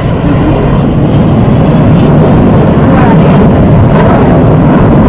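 Loud, steady jet engine roar of aerobatic display jets flying close overhead.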